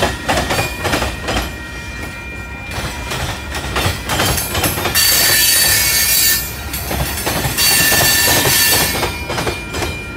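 Freight cars rolling past, their wheels clicking over rail joints, with two loud stretches of high-pitched wheel squeal, about five seconds in and again about seven and a half seconds in.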